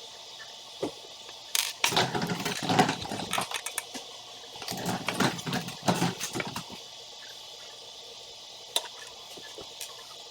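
Small building pieces rattling and clicking as they are handled: two bursts of clatter about two seconds each, then a few separate clicks.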